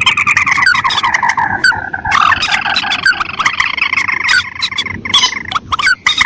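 Recorded calls of paddy-field rails (mandar and tikusan) played as a bird lure: a fast, overlapping series of short rising notes, with many sharp clicks among them.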